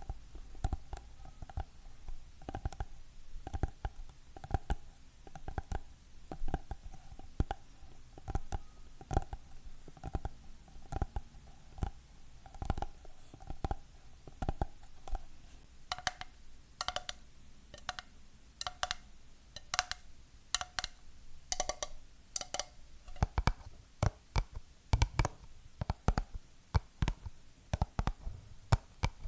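Fingernails tapping on hard objects, a few irregular taps a second. In the first half the taps set off a faint ringing tone in the object. From about halfway the taps turn crisper and brighter.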